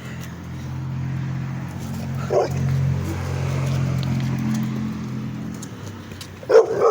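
A dog barking, once about two and a half seconds in and again near the end, over a steady low hum.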